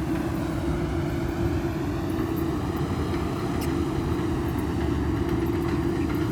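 Mitsubishi Canter dump truck's diesel engine running steadily, a low rumble with a steady whine over it.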